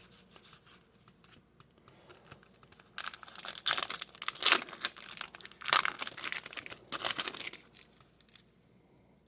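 A hockey card pack's wrapper being torn open and crinkled: faint handling clicks at first, then several loud rustling, tearing bursts from about three seconds in, dying away near the end.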